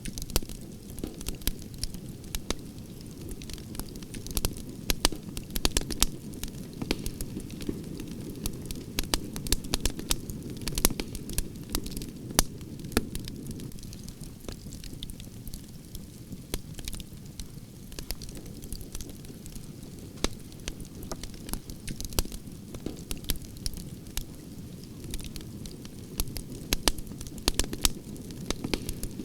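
Wood fire of burning branches crackling, with frequent sharp irregular pops and snaps over a steady low rumble of the flames.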